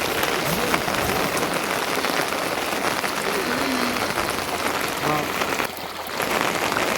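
Steady rain falling, a dense even hiss of drops, with faint voices in the background. The level drops briefly about six seconds in.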